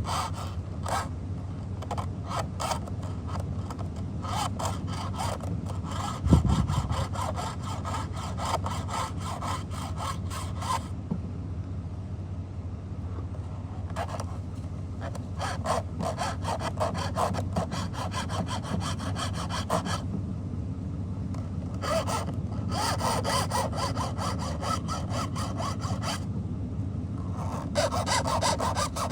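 Hand file being drawn across the cutters of a chainsaw chain to sharpen it: runs of quick, repeated rasping strokes with a few short pauses between them, over a steady low hum. There is one low thump about six seconds in.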